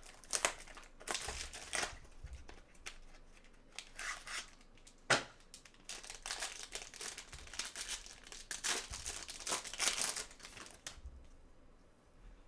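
Plastic card packaging crinkling and tearing as it is opened and handled, in irregular bursts, with one sharp snap about five seconds in and a longer run of crinkling in the second half.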